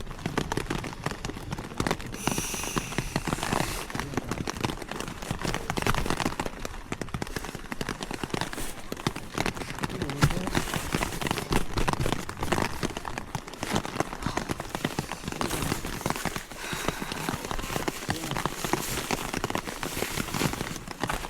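Rain pattering on a tent: a dense, continuous stream of irregular taps.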